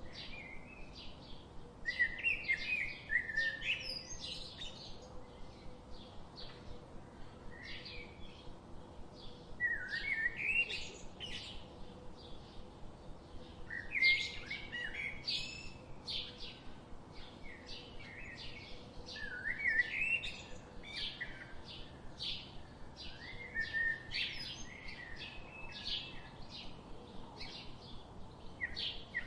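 Birds chirping and singing: a steady run of short chirps with warbling song phrases every few seconds, over a faint steady hum.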